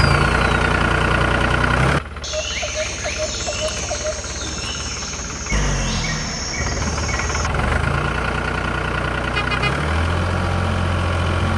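Small engine running steadily, as on a miniature tractor. A few seconds in it gives way to a high, steady chirring, then comes back.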